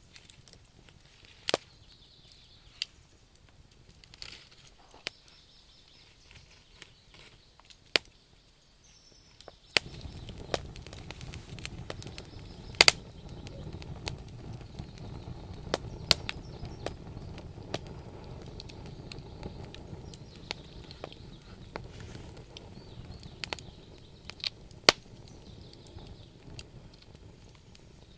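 Wood campfire crackling, with sharp irregular pops and snaps from the burning logs. About ten seconds in, a steady low rushing noise comes in under the crackle.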